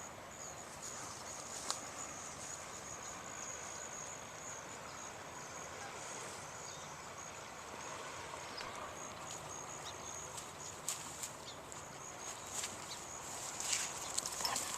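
A cricket trilling steadily at a high pitch, fading out about halfway through. Scattered clicks and rustles come and go, growing busier near the end.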